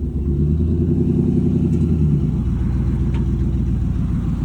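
Pickup truck engine running steadily, its low note changing a little over two seconds in.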